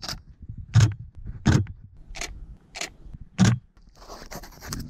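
Footsteps, six steady paces about 0.7 s apart, each a low thud with a gritty crunch, followed by a brief rustle near the end.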